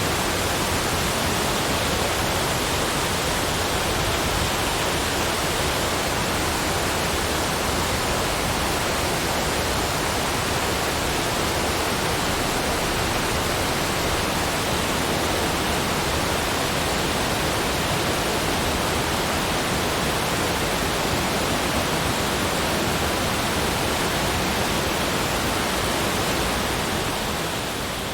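Steady, even rushing of water with no distinct splashes or drips, easing down a little near the end.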